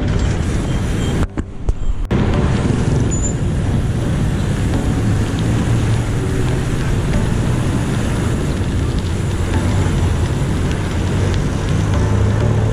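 Steady road traffic noise in city streets, with a brief drop in level about a second in.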